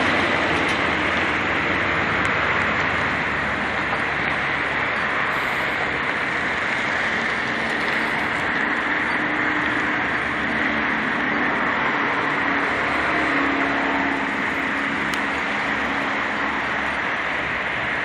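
Steady rushing noise with a low rumble underneath, like road traffic; it holds level throughout with no single event standing out.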